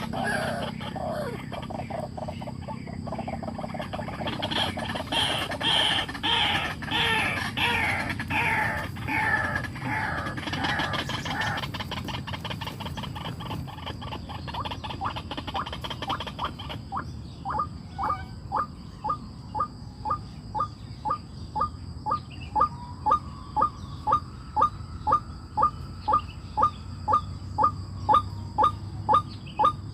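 Birds calling: many overlapping falling chirps for the first ten seconds or so. From about two thirds of the way in, one short call repeats steadily, about one and a half times a second.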